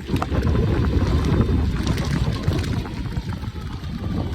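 Wind buffeting the microphone over the rumble of an e-bike's tyres as it rides along, an unsteady low rumble with a few light rattles.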